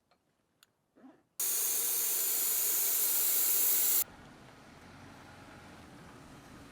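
Air hissing loudly out of a tire valve for about two and a half seconds, starting and cutting off abruptly: a Jeep Gladiator's tire being aired down to a lower pressure for crawling over rocks. After it, a low steady rumble.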